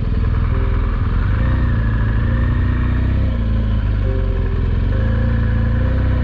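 BMW GS motorcycle's boxer-twin engine running steadily under a heavy low rumble, its pitch drifting slightly up and down as the bike rides along.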